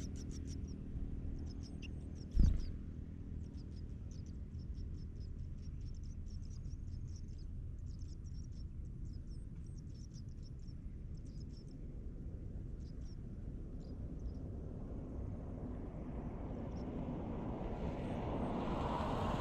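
Nestlings cheeping in the nest: thin, high, rapid chirps repeated in quick runs, fading out after about thirteen seconds, over a steady low rumble. A single sharp thump comes about two and a half seconds in. A rushing noise rises toward the end.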